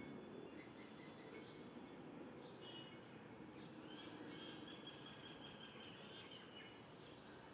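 Faint birds chirping over a low steady hiss, otherwise near silence; one longer high call runs from about four seconds in to past six seconds.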